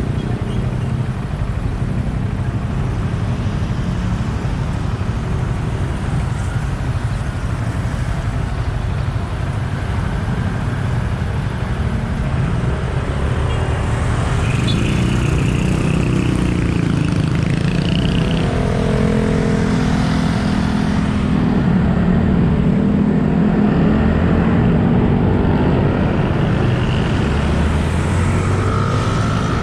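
Yamaha XSR 155's single-cylinder engine running under way, with a steady low rumble of wind and road noise and surrounding traffic. A pitched engine note shifts up and down in the second half.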